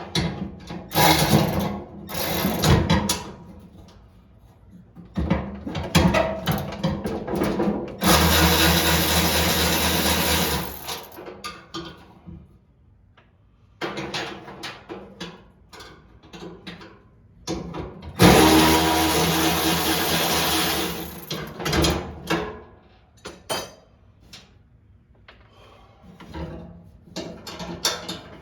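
A small power-tool motor, drill-like, runs steadily twice for about three seconds each time. Short knocks and rattles of parts being handled fall between the runs.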